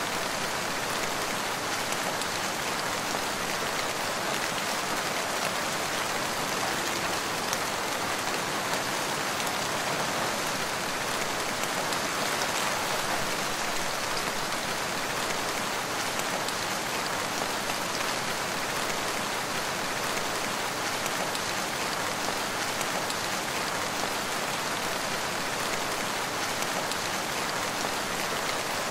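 Steady rain falling in a forest, a dense even hiss with small drop patters throughout.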